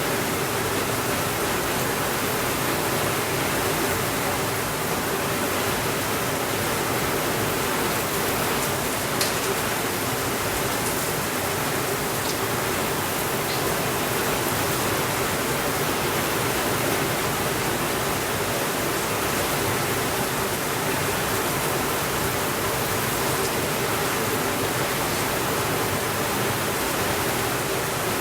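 Steady, even rain hiss, with a fireplace giving a few faint crackles near the middle.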